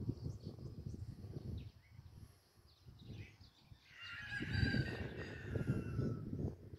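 A long bird call, falling slightly in pitch, begins about four seconds in and lasts a couple of seconds. Underneath it, gusts of wind buffet the microphone and small birds chirp faintly.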